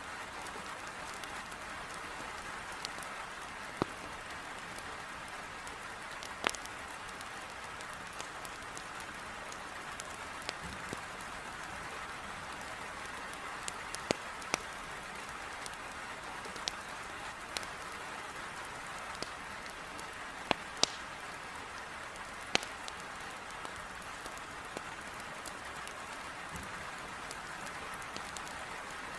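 Heavy rain beating on a window in a steady hiss, with scattered sharp pops and crackles of wood logs burning in a fireplace, a few of them louder.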